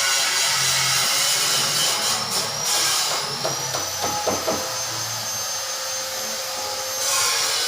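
A power tool running: a loud hiss at first, then a steady high whine from about three seconds in, with a few sharp clicks around the fourth second, before the loud hiss returns near the end.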